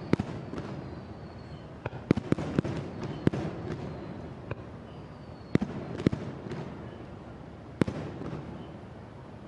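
Aerial fireworks shells bursting: a string of sharp bangs, several in quick succession about two to three seconds in and more around six and eight seconds, with rumbling echoes and crackle between them that die down toward the end.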